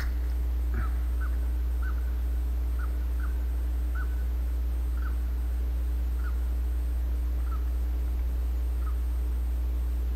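A bird calls over and over in short, clipped notes, about a dozen, spaced further and further apart until they stop near the end. A steady low rumble runs underneath.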